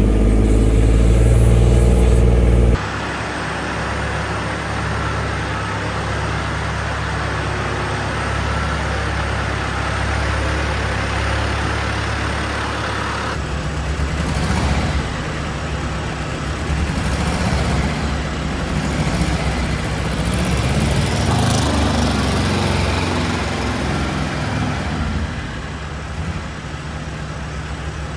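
Tractor engine running steadily, its sound changing abruptly twice, about three and thirteen seconds in.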